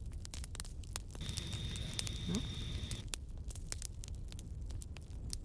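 Open fire crackling with irregular sharp pops over a low rumble; a thin steady high tone sounds for a couple of seconds about a second in.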